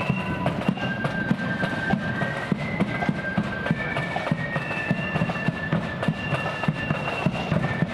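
Blood-and-thunder marching flute band playing a tune. The flutes carry the melody in held, stepping notes over a rapid, heavy pounding of snare and bass drums.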